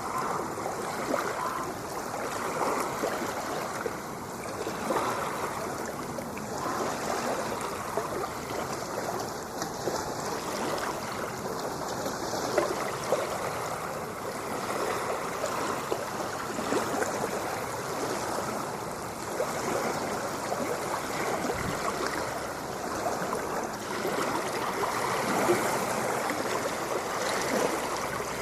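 Ocean water washing in a continuous rush, swelling and easing only slightly, with no clear breaks between waves.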